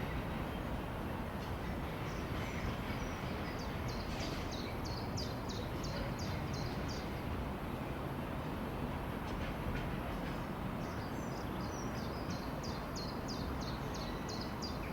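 A small bird calls a rapid run of short, high chirps, about four or five a second, twice: once early on for several seconds and again in the second half. Under it lies a steady low rumble of railway-station background noise.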